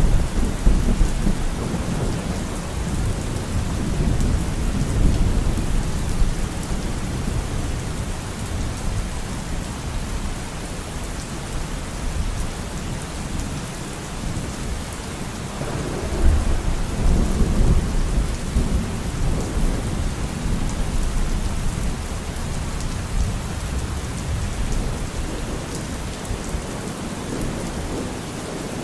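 Steady rain falling, with rolling thunder rumbling low beneath it. One peal is dying away over the first few seconds, and another rolls in about halfway through.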